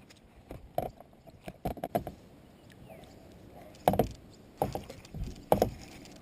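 A handful of irregular knocks and clatters of fishing gear against a plastic fishing kayak, coming in scattered clusters.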